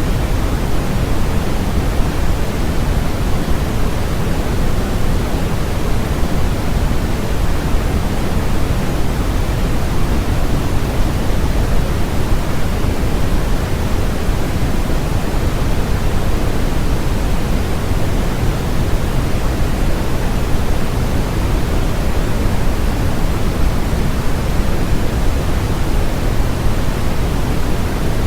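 Steady, unbroken electronically generated noise, a constant hiss and rush. Its energy is heaviest in the low end and thins toward the highs, closer to pink noise than to flat white noise.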